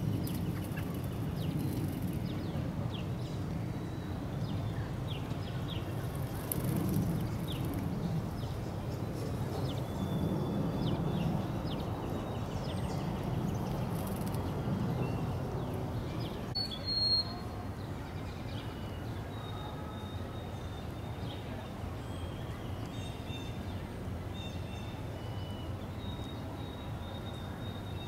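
Small songbirds chirping with short high notes over a steady low background rumble. About two-thirds of the way through there is a brief bump, after which the rumble drops and thin, high, held whistled notes repeat.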